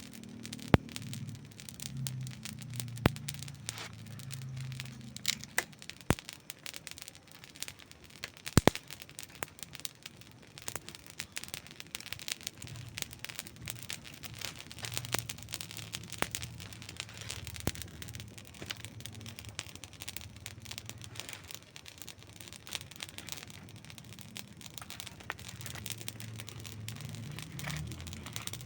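Wood campfire crackling, with a steady patter of small snaps and a few sharp, loud pops about a second in, around three seconds in and around nine seconds in.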